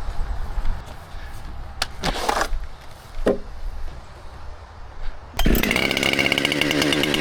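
A chainsaw starts suddenly about five seconds in and then runs steadily. Before it there are only a few brief knocks and rustles.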